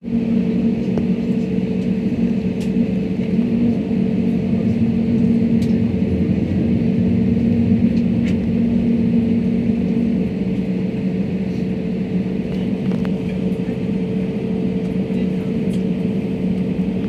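Steady engine drone and air noise inside a jet airliner's cabin, with a constant low hum. One of the hum's tones drops out about ten seconds in.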